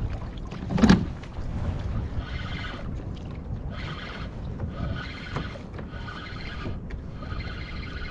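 Kayak out on the water with wind rumbling on the microphone, a single knock about a second in, then a mechanical whirr repeating in pulses about a second long.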